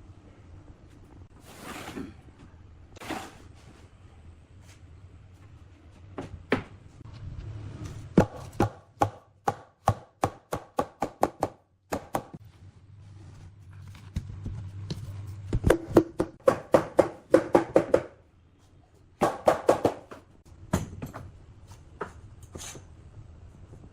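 Hammer blows on wood in quick runs of about three to four a second, with pauses between the runs.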